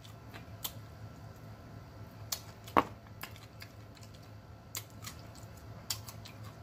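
Close-miked eating sounds: scattered wet lip smacks and mouth clicks while chewing rotisserie chicken, the loudest sharp smack a little under three seconds in, over a faint steady low hum.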